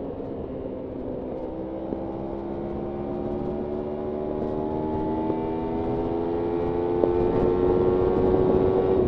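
Kawasaki Ninja 300's parallel-twin engine pulling under steady acceleration in one gear, its pitch and loudness rising slowly and evenly.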